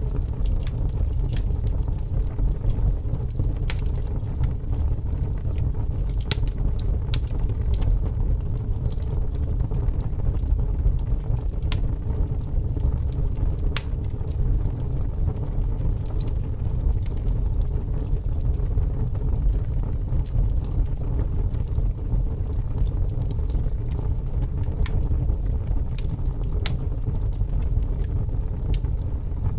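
Fire burning with a steady low rumble and scattered sharp crackles and pops at irregular moments.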